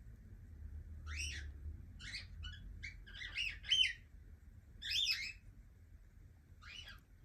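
Young cockatiel giving short chirping calls, each a quick bend up and down in pitch, about eight in a few seconds with the loudest a little before the middle.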